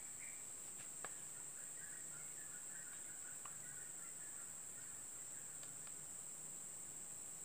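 Steady high-pitched drone of insects, with faint twittering bird calls for a few seconds in the middle and a single sharp click about a second in.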